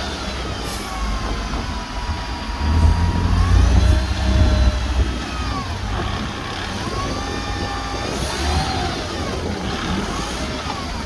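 Heavy earthmoving machinery running under load: a deep diesel engine rumble that swells for a couple of seconds about three seconds in. Over it runs a high squealing that rises and falls in pitch, typical of steel crawler tracks and idlers.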